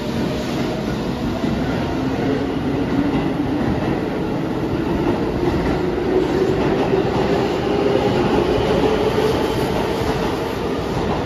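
Keihan electric train moving along an underground station platform: a steady rumble and clatter of wheels, with a motor whine that rises slowly in pitch as the train picks up speed.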